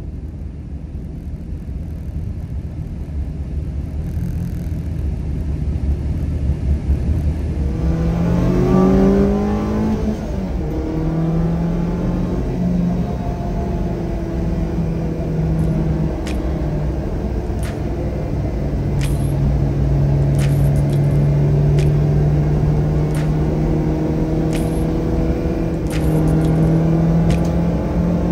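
Car engine pulling away and accelerating, its pitch rising and dropping as it changes gear, then running steadily at cruise. From about halfway there are short sharp ticks about every second and a half.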